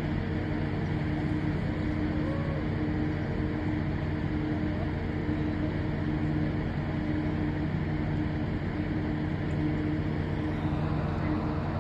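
A towboat's diesel engines running steadily at a low, even hum.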